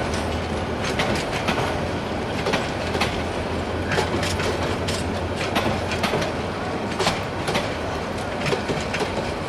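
Passenger train coaches rolling past, their wheels clacking over rail joints in a steady clickety-clack, the clacks coming in pairs about every second and a half over a continuous rumble.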